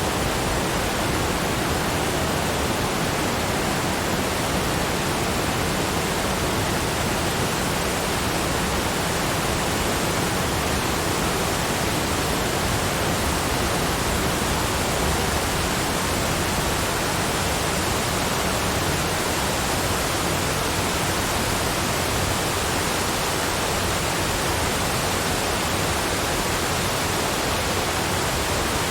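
A steady, even rushing noise spread across all pitches, unchanging throughout, with no separate sounds standing out.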